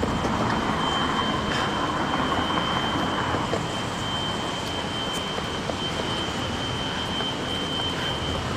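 Steady rushing noise of hurricane wind and rain, with a thin, steady high whine running underneath.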